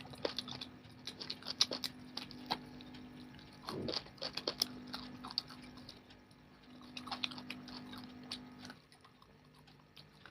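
Close-miked chewing of chicken biryani: irregular wet mouth clicks and smacks in clusters. A faint low steady hum sits underneath and stops near the end.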